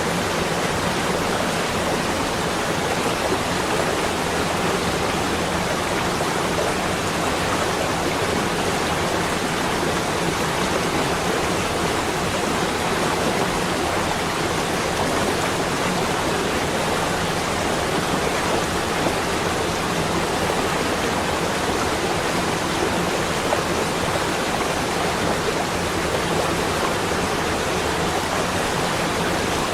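Steady, even rushing hiss with no breaks or separate events.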